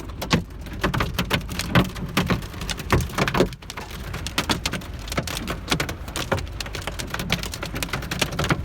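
Hail and heavy rain drumming on the roof and body of a Volvo 940 wagon, heard from inside the cabin: a dense, irregular patter of sharp hits with some louder single strikes.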